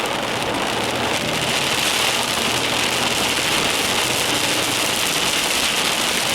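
Steady hiss of rain and water on a car, heard from inside the moving car, with the engine's low hum underneath.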